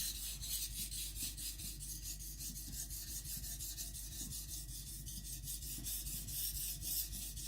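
Kiridashi blade being stroked quickly and evenly back and forth on a water stone with light pressure, a steady rhythmic scraping of steel on the abrasive, forming a convex secondary bevel.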